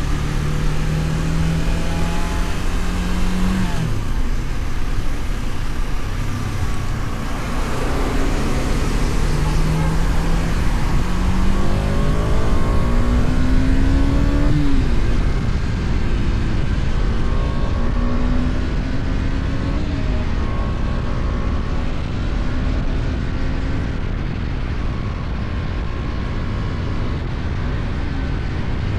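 KTM Duke 250's single-cylinder engine pulling on the highway: the revs climb and then drop twice in the first half, then it cruises at a fairly steady pitch. Heavy wind rush over the helmet-mounted microphone runs under it.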